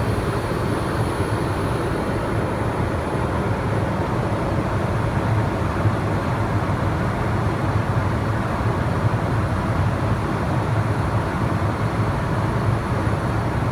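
Steady rumble and rushing noise of a vehicle in motion, with a faint high whine over it.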